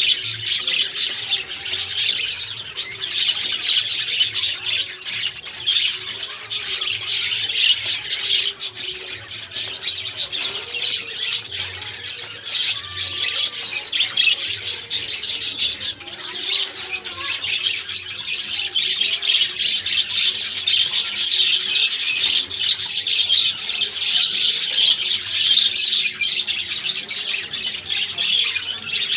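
Pet lovebirds chattering: a continuous stream of shrill chirps and squawks from several birds, with no pause.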